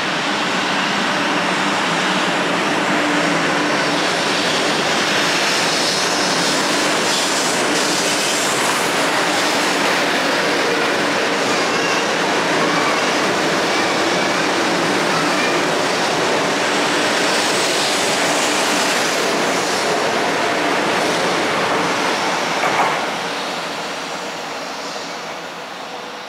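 500 series Shinkansen electric train pulling out of the station, its cars running past with a steady rolling noise of wheels and motors. The sound fades over the last few seconds as the train draws away.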